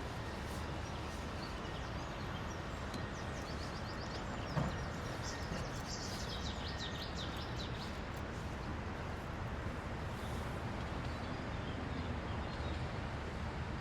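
Steady background hum of city traffic with small birds chirping over it, a quick run of chirps between about three and seven seconds in. A single dull thump about four and a half seconds in.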